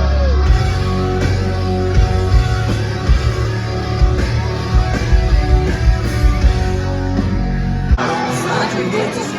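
Live rock band playing loud, with distorted guitar, heavy bass and drums, recorded on a phone from the crowd. About eight seconds in, the bass and drums drop out and a thinner, noisier texture remains.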